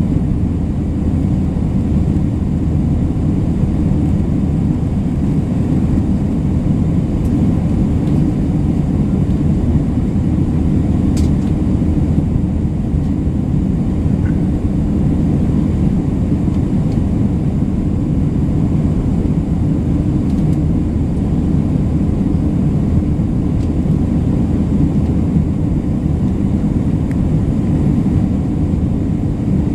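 Steady low rumble of an Airbus A320 in flight, heard from inside the passenger cabin: engine and airflow noise.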